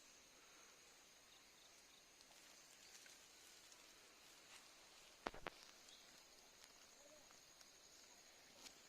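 Near silence: faint background ambience with a steady high-pitched tone, broken by two quick clicks close together about five seconds in.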